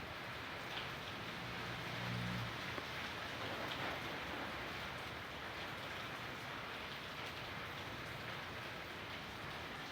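Steady rain falling, an even hiss. A low hum underneath fades out about two and a half seconds in.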